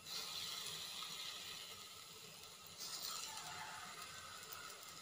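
Nendran banana slices sizzling in ghee on a hot dosa griddle as they are laid down: a hiss rises sharply at the start and again about three seconds in, then eases off.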